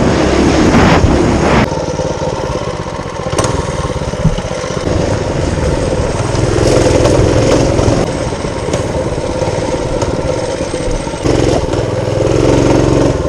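Mini-bike's small engine running under way, its throttle opening up in surges and easing off between them.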